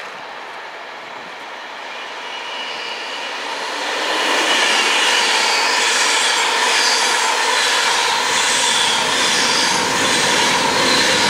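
Train approaching on the track, growing louder over about four seconds, then running past steadily with regular wheel noise on the rails.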